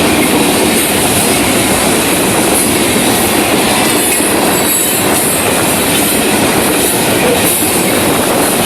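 Florida East Coast Railway freight cars, loaded with rock, rolling past at speed on the main track: a loud, steady noise of steel wheels on rail.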